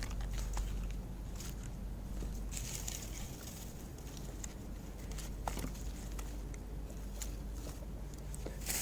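Faint rustling and handling noise with a few small clicks over a low steady rumble; no bang.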